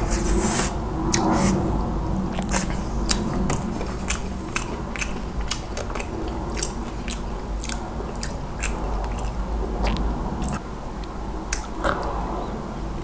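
Close-miked chewing of a mouthful of fried chicken thigh burger: many short crisp crunches and mouth clicks. A fresh bite comes near the end.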